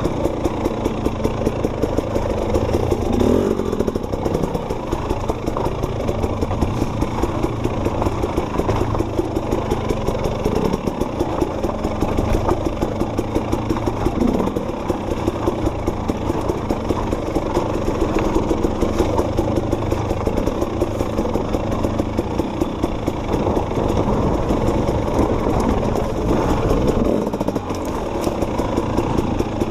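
Enduro dirt bike engine running steadily while the bike is ridden.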